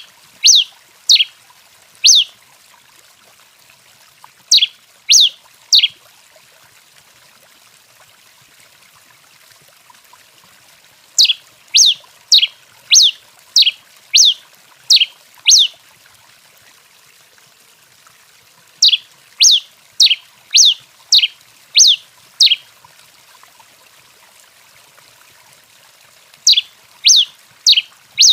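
A tico-tico-rei finch singing: sharp, loud notes that slur downward, given in quick bursts of three to nine with pauses of a few seconds between them, over a faint steady hiss.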